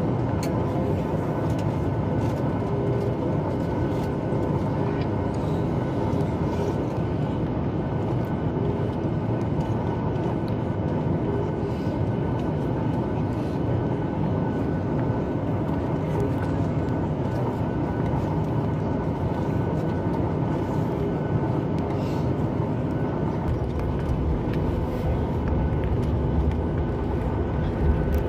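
Steady cabin noise inside a Boeing 737 MAX 8 taxiing after landing, its CFM LEAP-1B engines running near idle with a constant hum. A deeper rumble builds near the end.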